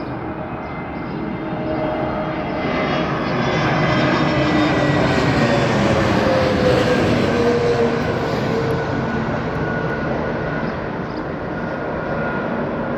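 An easyJet Airbus A320-family twin-jet airliner on its landing approach flying past. The jet engine noise swells to a peak in the middle and then eases, its whining tones falling in pitch as it goes by.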